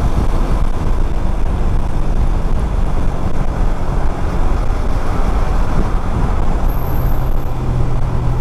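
Motorcycle ride in traffic: loud, steady wind rumble on the body-worn microphone over the motorcycle's engine, whose low hum grows steadier and clearer near the end.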